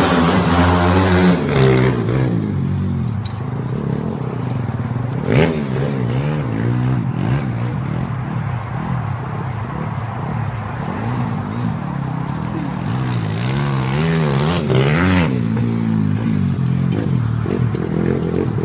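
Pit bike engine running continuously, with the revs rising and falling in sweeps near the start, about five seconds in and again about fourteen seconds in, and holding steadier in between.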